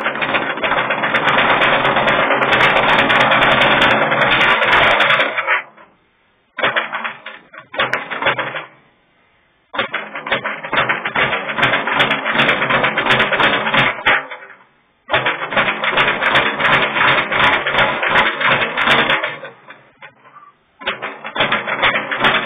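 Speed bag being punched in fast runs, a rapid rattle of the bag rebounding off its platform. The rattle comes in five runs broken by short pauses.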